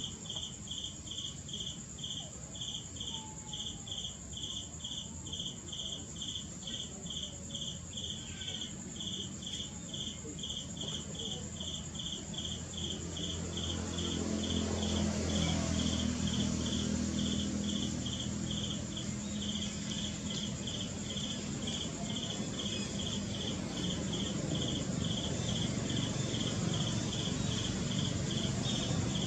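Insect chirping in an even, rapid train of short high-pitched pulses, about two to three a second, like a cricket. About halfway through, a low steady hum joins in and makes the whole louder.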